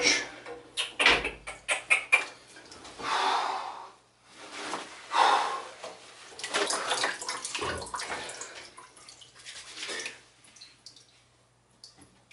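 Water splashing and sloshing during a cat's bath, with scattered knocks and clatters, dying away over the last two seconds.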